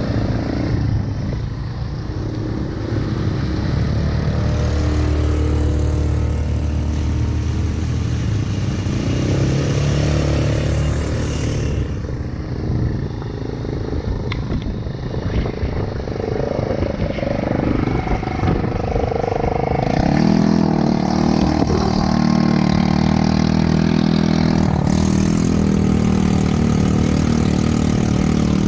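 ATV engine running under changing throttle, its pitch rising and falling, with a climb in revs about twenty seconds in.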